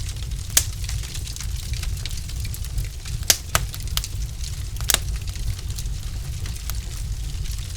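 Wood fire burning in a fireplace: irregular sharp crackles and pops from the logs, a few louder snaps among them, over a steady low rumble.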